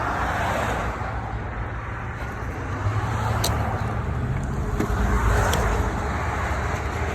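Low exhaust rumble of a Dodge Challenger Scat Pack's 6.4-litre HEMI V8 with its mid-muffler deleted, swelling in depth about five seconds in. A single sharp click comes about halfway through.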